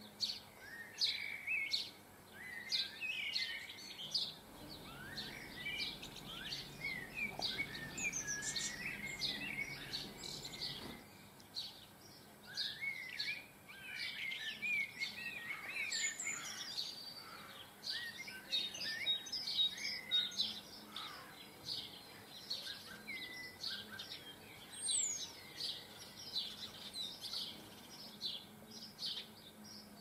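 Small garden birds chirping and twittering: a busy stream of short, high chirps with quicker warbling phrases mixed in.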